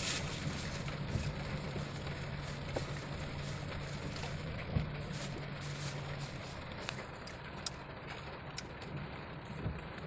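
A vehicle engine running with a steady low hum that fades about two-thirds of the way through, with scattered light clicks and rattles.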